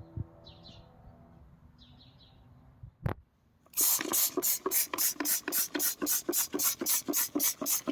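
A greasy metal window rail being scrubbed hard and fast with engine cleaner, about four rubbing strokes a second, starting with a sharp click about halfway in. Before that there is only a faint hum with a few bird chirps.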